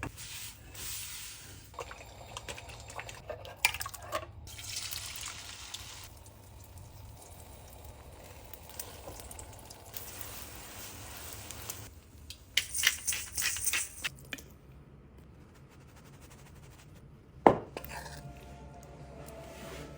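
Kitchen cooking sounds: liquid pouring and dripping, and dishes and utensils clinking. There is a flurry of clatter about twelve to fourteen seconds in and a single sharp knock about seventeen seconds in.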